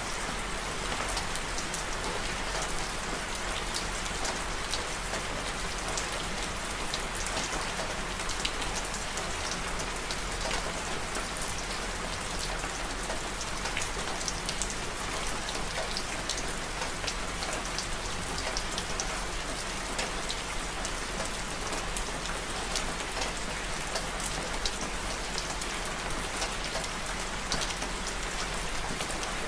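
Steady rain falling, a continuous hiss scattered with many small sharp ticks, mixed with the crackle of a fireplace fire.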